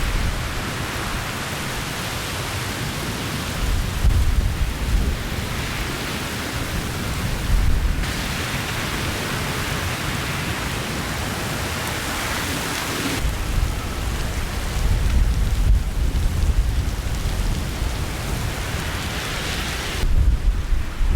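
Heavy downpour of rain, with gusts of wind rumbling on the microphone in irregular surges. The sound changes abruptly every few seconds, as from one shot of the storm to the next.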